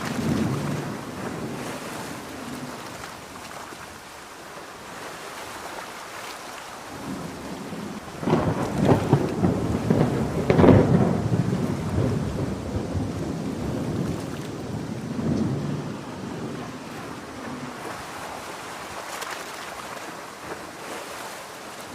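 Heavy rain falling steadily, with thunder rolling in about eight seconds in, loudest a couple of seconds later, then dying away; fainter rumbles come near the start and again midway.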